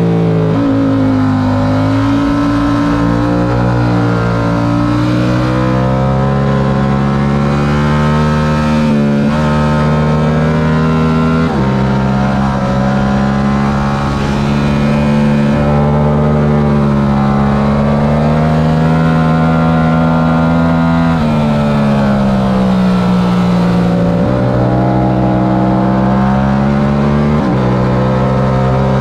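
Yamaha R7's 689 cc parallel-twin engine at race pace, pulling hard. Its pitch climbs and then drops sharply at several quick upshifts, and eases off once in the middle before pulling again.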